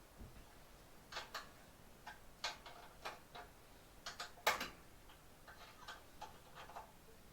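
A dozen or so light clicks and taps at an irregular pace, the sharpest about four and a half seconds in, as parts are handled around the band saw and its stand.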